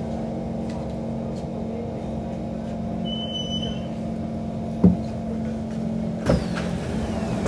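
Steady multi-tone hum of a stopped Kawasaki C151 metro train's onboard equipment, with a short high beep about three seconds in and two sharp knocks a second and a half apart near the end.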